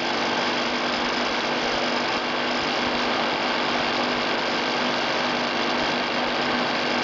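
Fan of a DIY cardboard box air cooler running steadily, with a steady hum and a rattling noise from the temperature sensor vibrating in the fan's outlet pipe.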